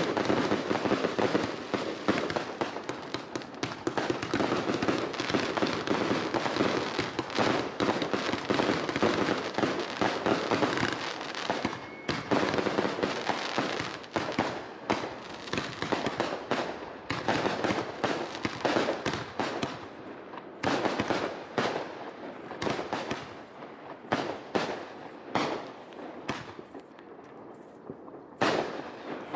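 Fireworks display: a dense barrage of crackles and bangs for about the first twelve seconds, then separate bangs that grow sparser toward the end.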